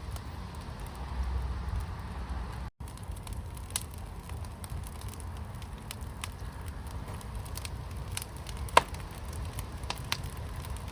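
Fire burning in a fire pit, crackling with scattered sharp pops over a low rumble; one pop about three-quarters of the way in is much louder than the rest. The sound cuts out for an instant early on.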